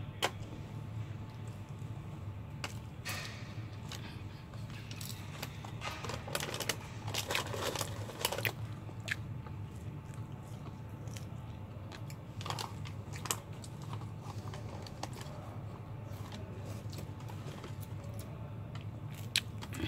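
Close-up eating noises: scattered wet mouth clicks, lip smacks and chewing while eating fried chicken, busiest a few seconds into the middle. A steady low hum runs underneath.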